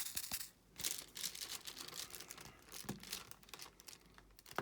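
Plastic crinkling and rustling with many small clicks as diamond painting supplies are handled: the drill tray is moved and the canvas's plastic is worked.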